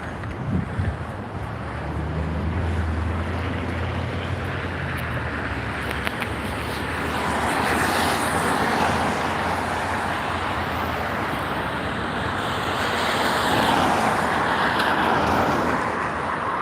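Steady outdoor rushing noise with a low hum during the first few seconds. The rushing grows broader and louder from about seven seconds in.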